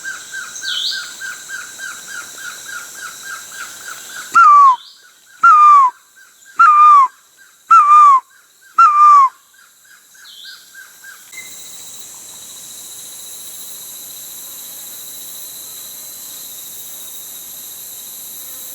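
A bird calling five times, about a second apart, each call a short loud whistle sliding downward in pitch, over rhythmic insect chirping. From about eleven seconds in, a steady high insect drone takes over.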